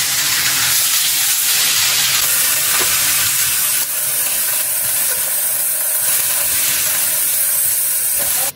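Marinated chicken pieces sizzling in hot oil in kadai pans on a gas stove, a steady loud hiss.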